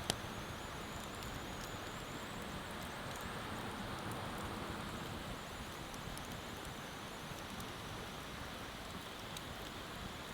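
Wood bonfire crackling, with scattered sharp pops and one loud pop just after the start, over a steady rush that fits flowing river water.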